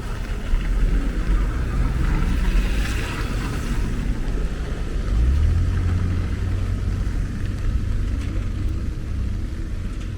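Road traffic on a rain-wet city street: a low vehicle engine rumble, with a swell of tyre hiss about two to four seconds in and a heavier engine rumble from about five seconds in.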